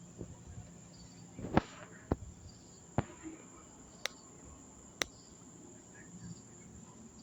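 Crickets trilling steadily, with five sharp, irregularly spaced clicks over the first five seconds as the loudest sounds.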